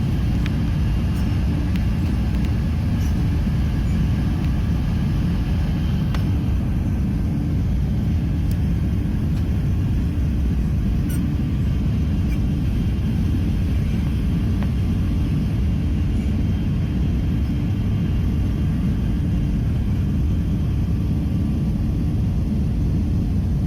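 Steady low rumble of an Airbus A380 heard from inside the passenger cabin during the climb after take-off: engine and airflow noise, with a few faint clicks.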